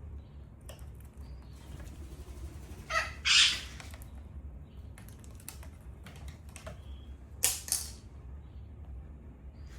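Indian ringneck parrot giving a harsh screech about three seconds in and two short squawks about seven and a half seconds in, with light tapping and clicking in between.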